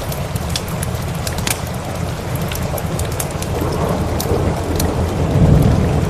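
Steady rain with a low rumble of thunder that builds about four seconds in and peaks near the end, over scattered sharp crackles.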